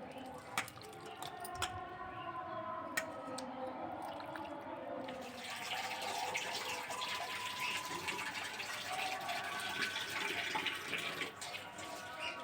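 Water running and splashing, starting about five seconds in, after a few sharp clicks.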